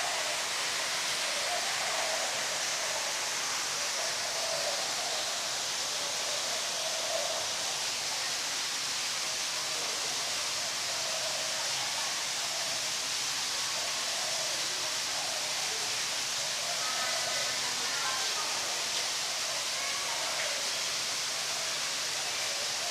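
Steady, even rushing noise of aquarium hall ambience, like running water, with faint voices in the background.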